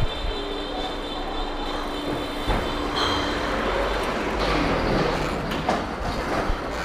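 Steady street and traffic noise with a thin, high-pitched squeal that stops about three seconds in, and a few light knocks.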